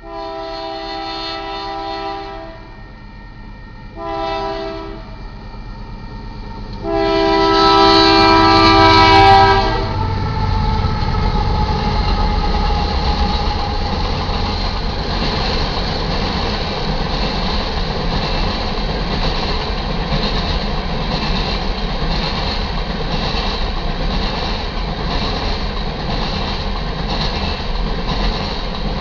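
Union Pacific GE AC4400CW locomotive's air horn sounding three blasts: a long one, a short one, then a long one that is the loudest. The coal train then rolls past with a steady heavy rumble and a rhythmic clatter of wheels on the rails.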